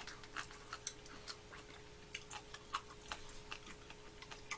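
Faint, irregular wet clicks of someone chewing a mouthful of ramen noodles, a few a second, over a faint steady hum.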